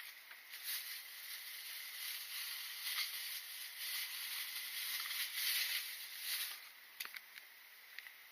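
Wood fire burning in a makeshift rocket-stove-style burner, hissing steadily with a few sharp crackles; the hiss fades noticeably about six and a half seconds in.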